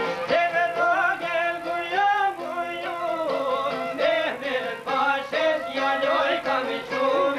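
Albanian folk music: a band with violin playing over a steady beat, with a melodic vocal line bending over it.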